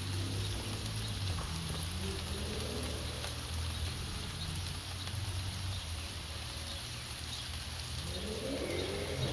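Meatloaf burger patty sizzling and crackling as it cooks on a hot surface, over a steady low hum, with a rising tone near the end.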